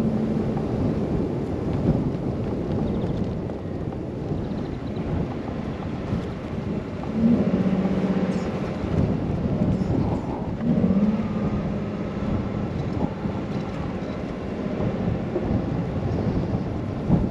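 Blizzard wind buffeting the microphone over the low rumble of a car driving on a snowy road, rising and falling in gusts. A low hum comes in twice, about seven and ten seconds in.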